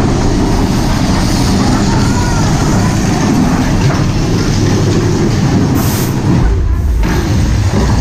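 Big Thunder Mountain Railroad mine-train roller coaster running on its track: a loud, continuous rumble and rattle of the train. The low rumble grows heavier about six seconds in.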